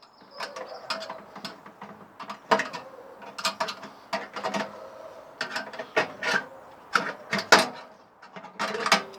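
Irregular metallic clicks and knocks of a screwdriver and hand tools working at the screws on the sheet-metal underside of a microwave, freeing its turntable motor.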